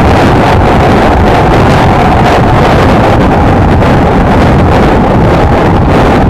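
Heavy wind buffeting on the microphone while riding a Honda XLR125R, with the steady drone of its single-cylinder engine faintly beneath at an even pace.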